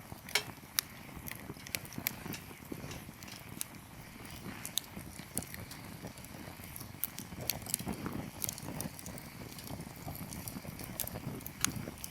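Wood campfire crackling: firewood popping in irregular sharp snaps, a few louder than the rest, over a steady low rumble of the burning fire.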